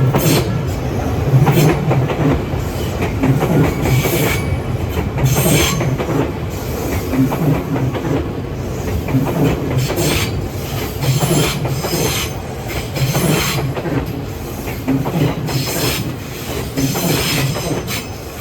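Train passing close by a level crossing, its wheels clacking over the rail joints in a steady repeating rhythm.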